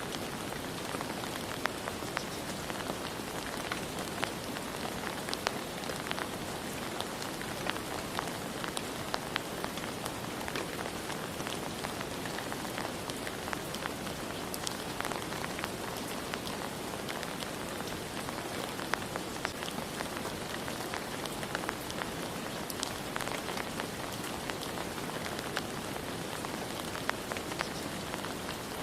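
Steady rain falling, a constant hiss with many close individual drops pattering on a surface.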